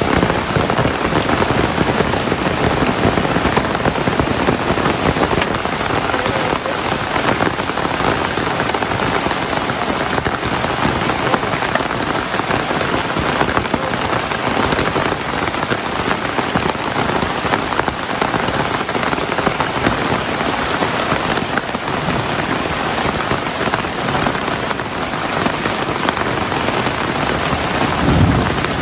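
Heavy rain falling steadily, a dense even hiss of drops on surfaces. A brief low thud comes near the end.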